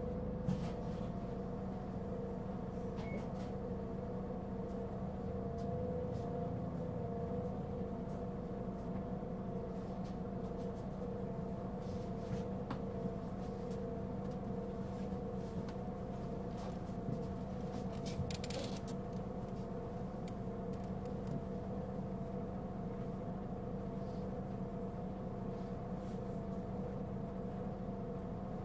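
Cabin sound of a Mitsubishi Fuso Aerostar LKG-MP37FK city bus, its diesel running at a constant speed with a steady hum of several fixed tones and no change in pitch. A few light clicks and rattles from the cabin. This bus is known for giving off a strong abnormal noise.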